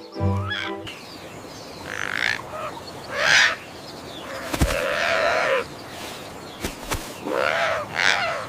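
A series of short animal calls, about four of them, each with an arching pitch, with two sharp clicks between them and no music.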